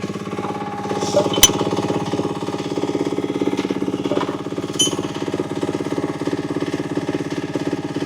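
UME10P mini excavator's engine idling steadily with a rapid, even beat. Two sharp metallic clinks ring out, about one and a half seconds in and again near five seconds, as a spanner works on the track tensioner's lock nut.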